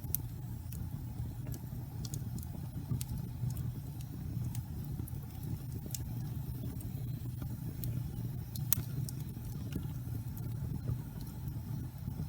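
Wood fire burning in a fireplace: a steady low rumble of flames with scattered crackles and pops, one sharper pop near the nine-second mark.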